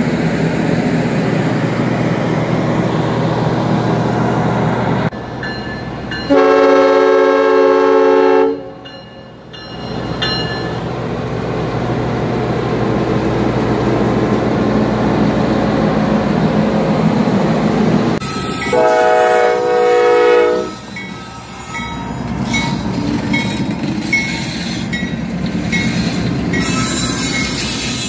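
Diesel-hauled trains passing close by with a low, steady rumble. A locomotive horn sounds two long blasts, one at about 6 seconds and one at about 18 seconds. Near the end, a passing freight train's wheels clatter with repeated clicks.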